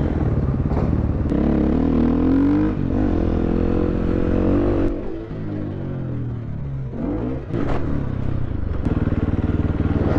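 Dirt bike engine running under throttle, rising in pitch about two seconds in. The throttle eases off about five seconds in and the engine picks back up about seven and a half seconds in.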